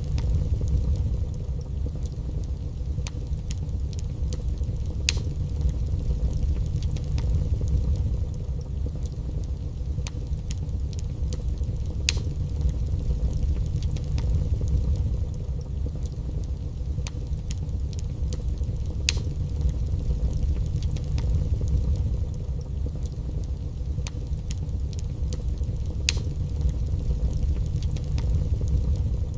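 Wood fire burning in a fireplace: a steady low rumble with occasional sharp crackles and pops.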